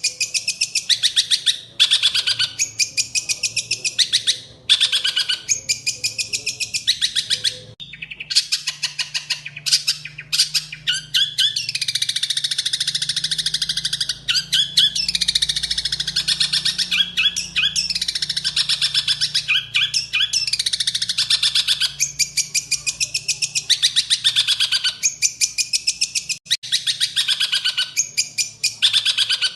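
Songbird singing in rapid trilled phrases about a second long, repeated with short gaps. From about 8 s to about 22 s the song runs on without a break as dense chattering with falling sweeps, then the separate phrases return.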